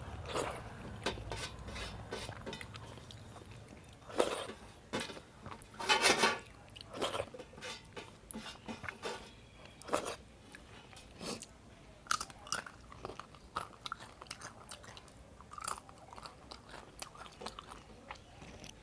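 A person chewing and biting food close to the microphone, with irregular crunchy bites and mouth sounds; the loudest crunches come about four, six and ten seconds in.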